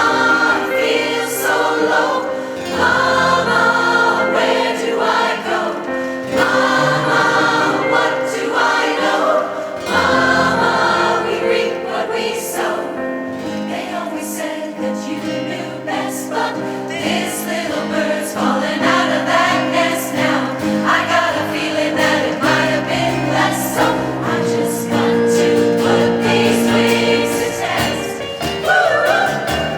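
Amateur adult choir singing, holding sustained chords in several voice parts.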